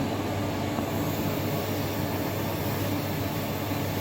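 Steady rushing air noise over a low hum, like a ventilation fan running; the hiss grows a little brighter about a second in.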